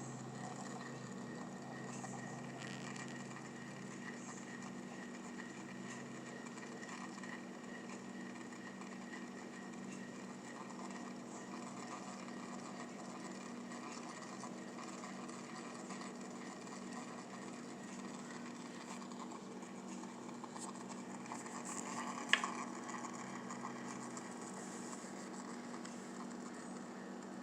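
A steady low hum throughout, with one sharp click about 22 seconds in.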